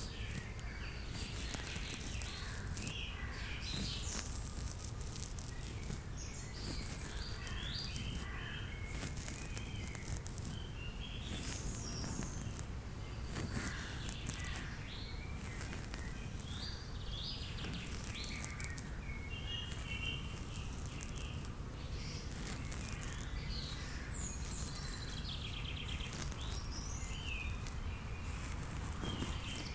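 Recorded nature ambience: many small birds chirping and twittering in short, scattered calls over a steady low background of outdoor noise.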